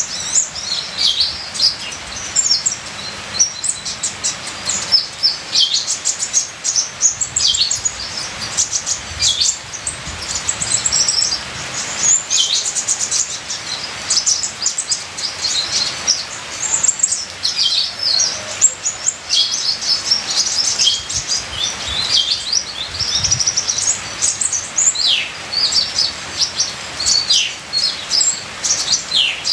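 A sunbird of the kind called kolibri ninja in Indonesia sings without a break: quick high chirps, short falling sweeps and fast ticking trills, loaded with imitated phrases. A steady trickling-water hiss runs underneath.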